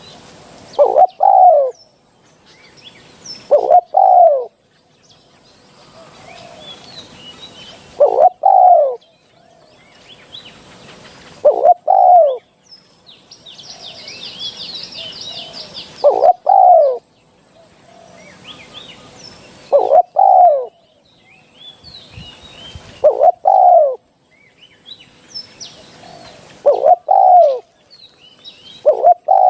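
Spotted dove cooing, a short two-part coo repeated about every three to four seconds. Faint chirps of small birds between the coos, with a brief high trill midway.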